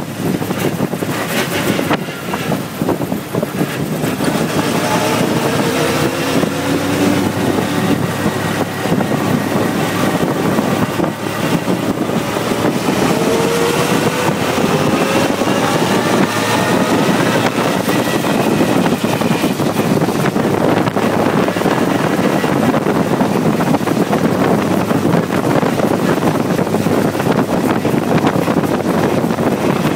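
Brasier record car's engine running hard on the move, its note climbing in pitch, falling back, then climbing again, over a steady rush of wind.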